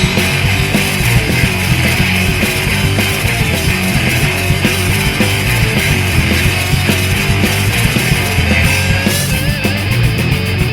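Punk rock band playing an instrumental stretch with no vocals: distorted electric guitars, bass and drums driving at full volume. Near the end a high guitar line with wavering bends comes in over the rhythm.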